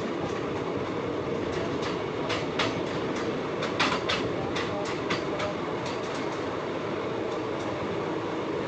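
Saryu Yamuna Express passenger train running, a steady rumble with a run of sharp clacks about two to five seconds in, the loudest near the middle.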